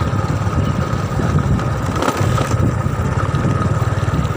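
Small motorcycle engine running steadily while riding, its exhaust a rapid, even pulsing.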